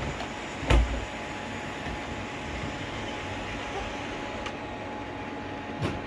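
Robot vacuums running, a steady whirring hiss with a faint hum, with a loud thump about a second in and a smaller one near the end.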